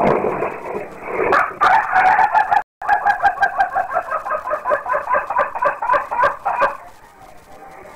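Rooster crowing: one held note, then a long stuttering run of quick pulsed notes, about five a second, ending near the end. The crow is strangled-sounding enough that the uploader jokes it has choked and needs throat surgery. It is heard as playback with the high end cut off.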